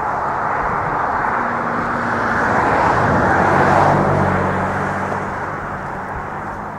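A motor vehicle driving past, its engine and tyre noise building to a peak about four seconds in, then fading away.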